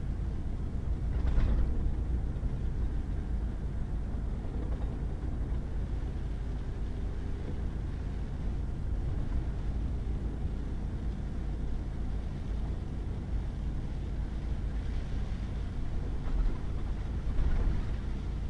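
Pickup truck driving on a wet, muddy back road: a steady low rumble of engine and tyres, with two brief louder surges of noise, one about a second and a half in and one near the end.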